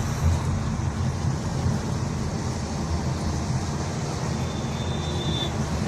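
Steady low road and engine rumble heard inside the cabin of a Honda Elevate SUV on the move.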